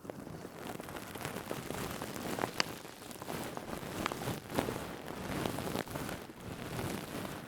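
Stainless steel scourer being rubbed and squeezed, making a dense crinkly crackle scattered with sharp clicks. It begins abruptly out of near silence.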